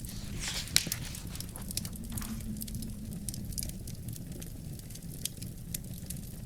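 Wood fire burning in a fireplace: a steady low rumble of flames with frequent sharp crackles and pops, one loud pop just before a second in, alongside a brief hiss.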